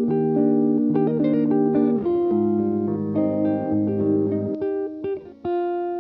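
Background music: a guitar picking single notes and chords, with a short gap near the end before a last chord rings on.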